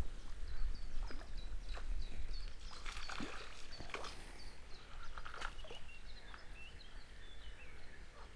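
Small bird chirping repeatedly in short high notes, with scattered rustles and knocks.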